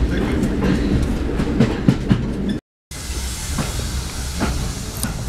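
Railway carriage running along the line, heard from inside: a low rumble with sharp wheel clicks over the rail joints. After a short break it gives way to a lighter, steadier hiss with a few scattered clicks.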